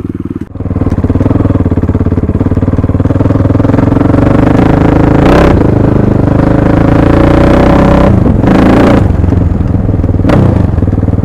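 1998 Husaberg FC600's single-cylinder four-stroke engine running loudly as the motorcycle is ridden. It dips briefly and picks up again about half a second in.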